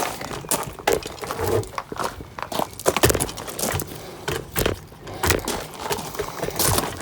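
Irregular knocks and clatter, several sharp hits a second at uneven spacing.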